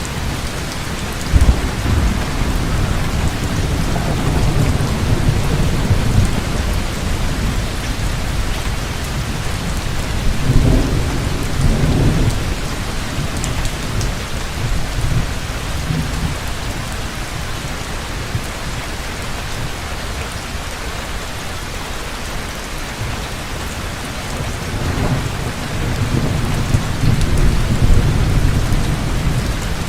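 Heavy rain pouring steadily, with rolling thunder rumbling low three times: just after the start, around the middle and near the end.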